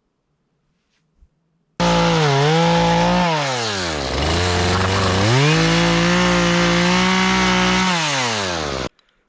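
A power tool's motor running. Its pitch drops and climbs back about halfway through, then winds down near the end before cutting off.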